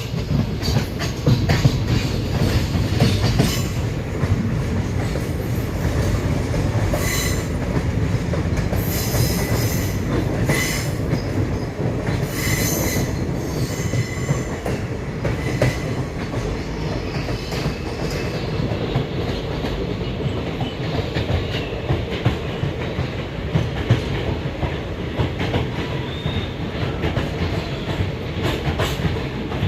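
Passenger train running along the track: a steady low rumble with wheel clatter, and high metallic wheel squeal coming and going between about seven and sixteen seconds in.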